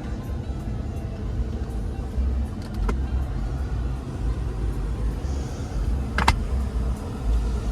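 Ford 6.7L Power Stroke V8 turbo-diesel idling with a steady low rumble, with two short clicks, about three seconds in and again a little after six seconds.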